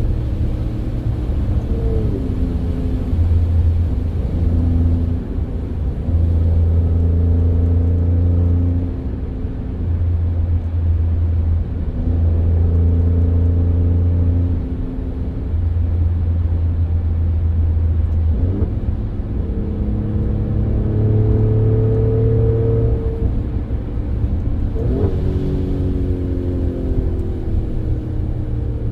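Alfa Romeo Stelvio Quadrifoglio's twin-turbo 90-degree V6, fitted with K&N air filters, running loud and continuous; the engine note holds steady for stretches and shifts pitch several times, with quick swoops in pitch about two seconds in, around eighteen seconds and around twenty-five seconds.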